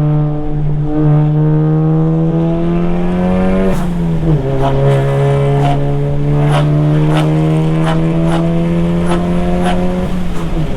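Turbocharged 2.0-litre four-cylinder engine of a tuned MK7 Volkswagen Golf GTI pulling hard under full throttle, its pitch climbing steadily through a gear, dropping sharply at an upshift about four seconds in, then climbing again until another shift near the end. A run of sharp clicks sounds over the second half.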